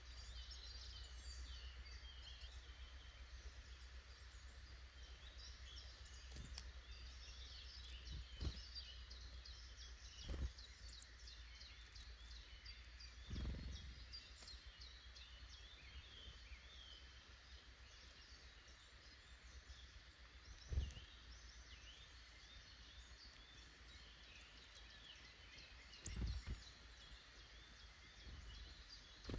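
Faint woodland birdsong: several small songbirds chirping and trilling at once, with a few soft low thumps scattered through.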